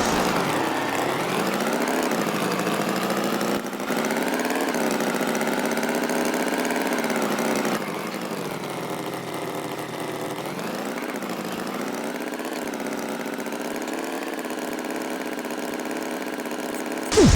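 Cartoon tractor engine sound effect running steadily, its pitch wavering slowly up and down like light revving, a little quieter after about eight seconds. A brief whistle-like cartoon sound effect comes right at the end.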